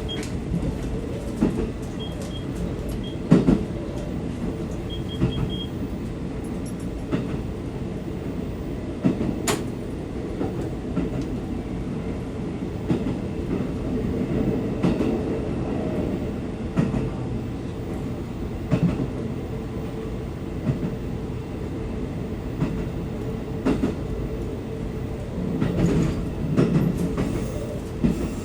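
A train running along the track: a steady rumble with scattered knocks and clicks from the wheels and rail joints.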